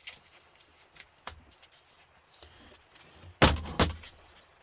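Metal scrap being handled during a radiator teardown: a few light clicks, then a loud, rattling metal clatter about three and a half seconds in.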